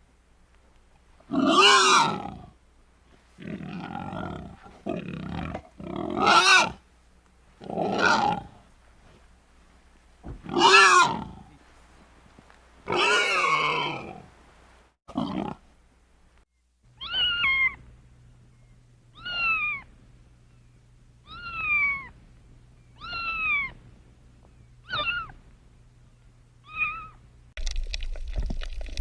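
Animal calls: a run of loud, harsh calls about every one to two seconds, then, after a short gap, a run of shorter, higher calls that each fall in pitch, about every two seconds.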